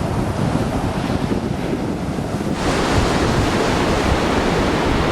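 Ocean surf rushing on the shore, with wind buffeting the microphone. The rush grows louder and more hissing about halfway through.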